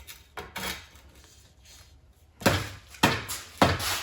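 Three sharp knocks about half a second apart in the second half, preceded by a faint one: bicycle crank parts being knocked into place on the bottom bracket.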